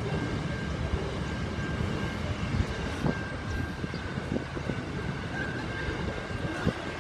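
Freight train wagons rolling past: a steady rumble of wheels on rail with scattered clanks and knocks, and a faint steady high whine throughout.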